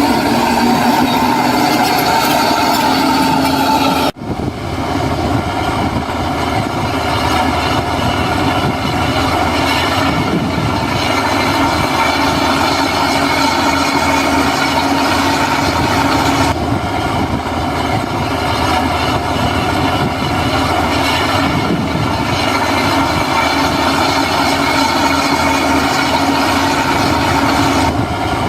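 Heavy earthmoving machinery running steadily under load, a diesel engine with the clatter and squeal of steel tracks. The sound cuts out abruptly about four seconds in and resumes at once.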